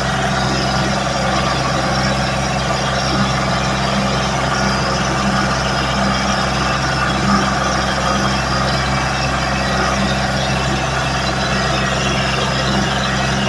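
Ford 1720 compact tractor's diesel engine running at a steady speed while the tractor is driven.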